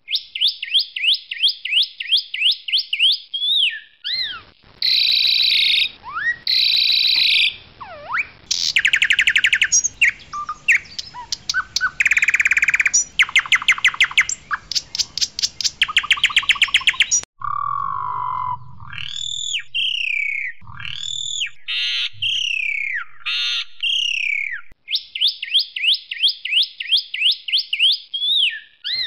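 Pied myna (jalak suren) singing a loud, varied song: runs of rapid repeated chattering notes, fast rattling trills about halfway through, and slurred whistled notes that rise and fall.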